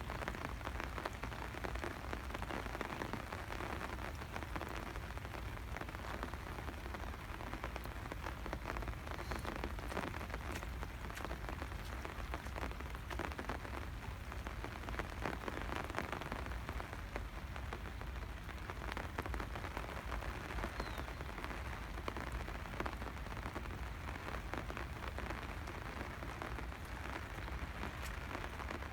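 Steady rain falling, with a dense spatter of small drop hits throughout.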